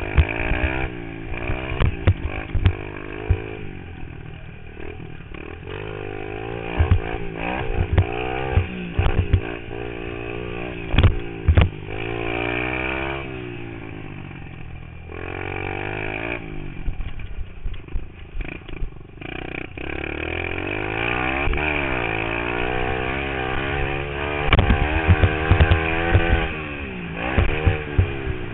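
Pit bike engine revving up and falling back again and again as it is ridden around a dirt track, heard from a helmet-mounted camera, with many short sharp knocks and bumps.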